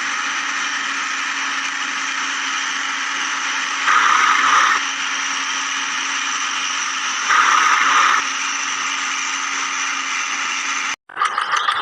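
Steady engine drone of a cartoon backhoe loader, swelling louder twice for under a second, as when it digs or lifts. It cuts off abruptly near the end and another engine sound starts.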